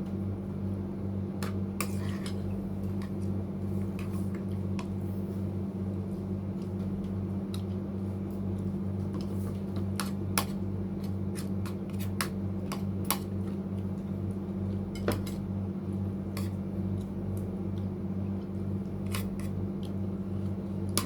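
Spoon and dishes clinking now and then while eating, as scattered light clicks, over a steady low hum.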